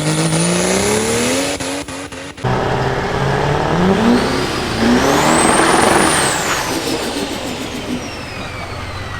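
Diesel race truck engines accelerating hard, their pitch climbing twice with a sudden cut between. A high turbo whistle rises and then falls away as a truck passes.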